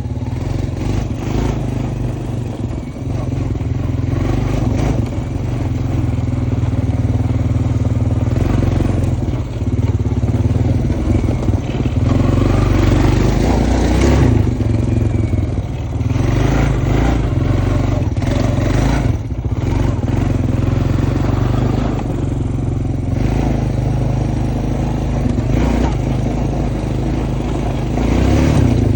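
Honda Foreman ES ATV engine running steadily while being ridden, its note shifting with the throttle, with a few brief knocks and rattles along the way.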